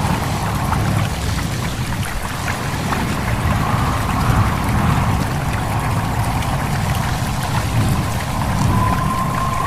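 Stream babbling and trickling over stones, with a steady low rumble of wind and small water splashes. Near the end a steady high whistling tone comes in.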